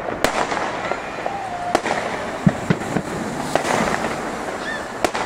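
Aerial fireworks display: several sharp bangs at irregular intervals over a continuous crackling noise from shells bursting overhead.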